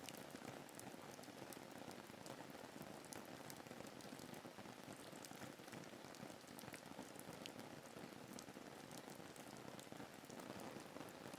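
Faint, steady rain ambience: an even hiss of rainfall with many small drop ticks scattered through it.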